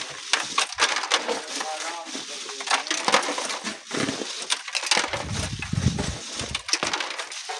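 Sand and gravel being worked by hand with a shovel and sieve: a dense run of gritty scrapes and stony rattles. Gusts of wind buffet the microphone with a low rumble about five seconds in.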